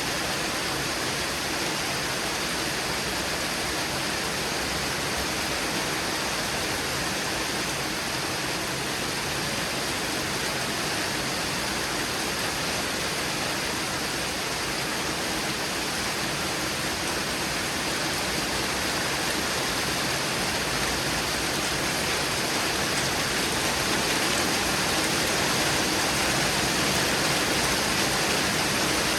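Heavy rain pouring down in a thunderstorm, a dense steady hiss, getting a little louder toward the end.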